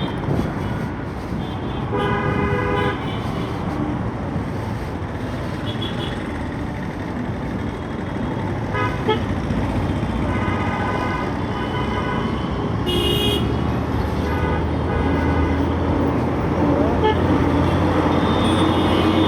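Road traffic heard from a moving motorcycle: a steady rush of engine and road noise with vehicle horns honking several times, the longest about two seconds in. A low steady hum joins about two-thirds of the way through.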